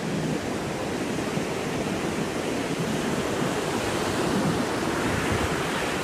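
Ocean surf washing on the shore, a steady rushing noise, with some wind on the microphone.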